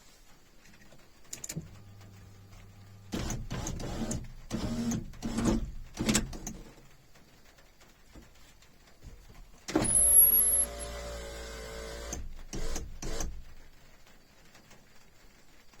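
A run of knocks and rustling handling noises, then a short mechanical whir lasting about two seconds, the loudest sound, ending in a couple of clicks.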